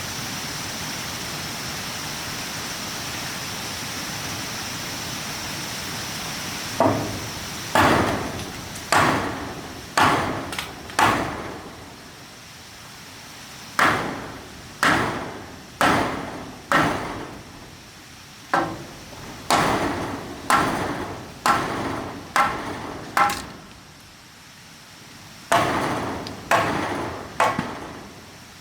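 Steady hiss with a faint high whine for about seven seconds, then hammer blows about one a second in runs of four to six with short pauses between, each blow ringing briefly.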